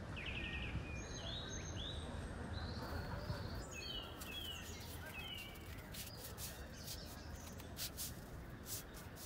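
Small birds chirping, with short downward-sliding calls repeated over a steady background hush. A quick run of sharp ticks joins in over the second half.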